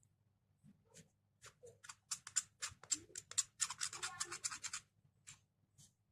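A run of quick scratching strokes starts about a second in and grows fast and dense in the middle before a few last strokes near the end.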